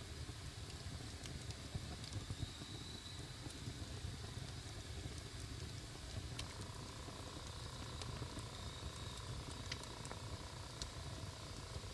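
Wood fire crackling: scattered sharp pops over a low steady rumble, with a faint steady tone coming in about halfway through.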